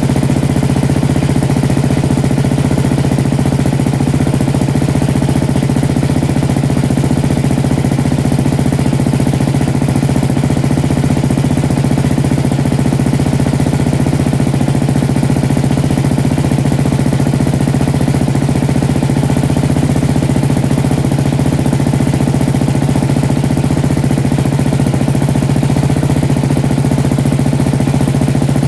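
KTM Duke 620 LC4's single-cylinder four-stroke engine idling steadily as it warms up after a cold start.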